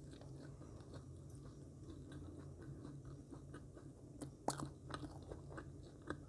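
Faint close-up mouth sounds of someone chewing marshmallow with the mouth closed, with a few short sharp wet clicks about four and a half seconds in and again near the end, over a low steady hum.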